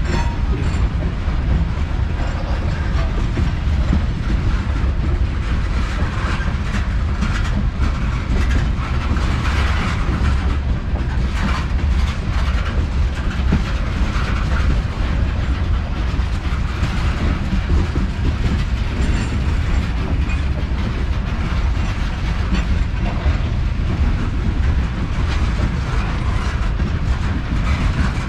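Freight train of covered hopper cars rolling past: a steady heavy rumble, with the wheels clicking rhythmically over the rail joints.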